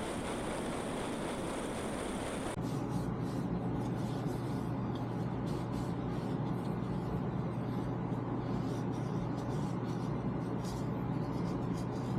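Shopsmith lathe running steadily. About two and a half seconds in, the sound changes abruptly from an even hiss to a steadier low hum with faint intermittent scraping noise.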